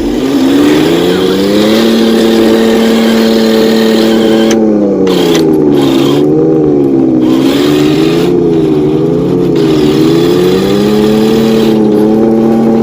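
Remote-control vehicle's engine-like drone running steadily, its pitch rising and dipping several times as the throttle changes.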